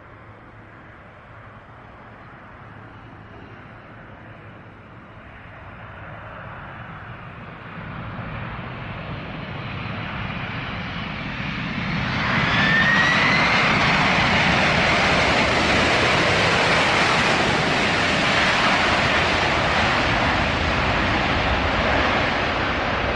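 Jet airliner's engines approaching and passing close, a steady noise that grows louder over the first half and is loudest from about halfway, with a brief rising whine as it peaks.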